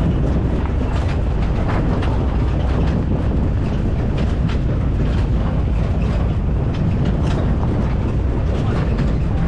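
Jeep driving on a rough dirt track: a steady low rumble of engine and tyres, with frequent rattles and knocks from the vehicle.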